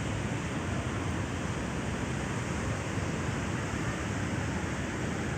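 Sea surf washing onto the shore: a steady, even rush of waves with no single crash standing out.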